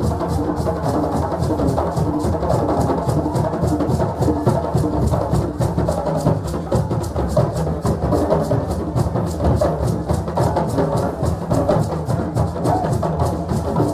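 West African drums playing a fast, dense rhythm that runs on without a break.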